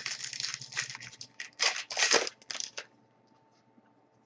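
Trading-card pack wrapper crinkling and tearing and the cards inside being handled, a close run of rustles for about three seconds that then stops.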